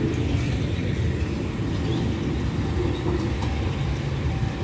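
Low, steady rumble of a diesel-hauled passenger train running at the far end of the station.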